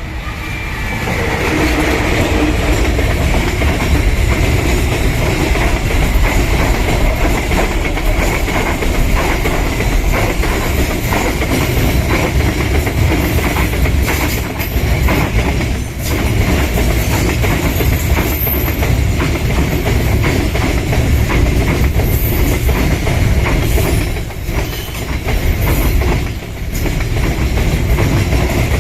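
A train passing close by, its wheels clattering over the rail joints, with a steady high squeal from the wheels. The sound builds over the first two seconds and stays loud, easing briefly a couple of times.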